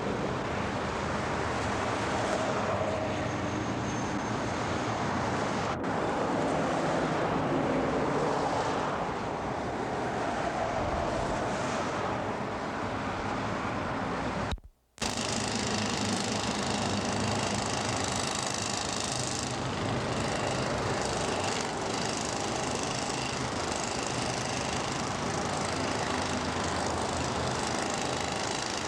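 Steady engine and machinery noise, like vehicles running, with a brief dropout about fifteen seconds in before it resumes.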